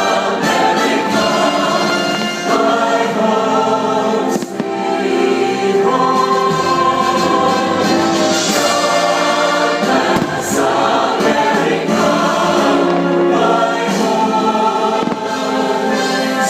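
A choir singing with instrumental accompaniment: the music of a fireworks show. A few short sharp cracks break through, about four and ten seconds in.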